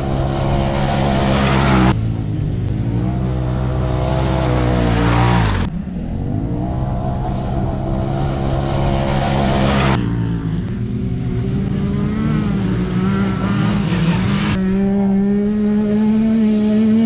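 Side-by-side UTV engine running hard on a dirt race track, its pitch rising and falling with the throttle. The sound changes abruptly every few seconds.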